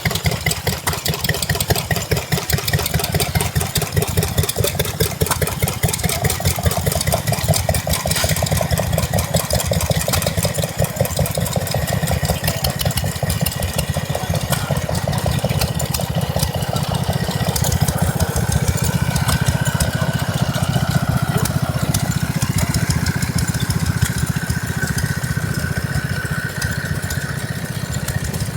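Small vintage stationary engines running steadily with a rapid, even firing beat. A steady high whine joins about two-thirds of the way in.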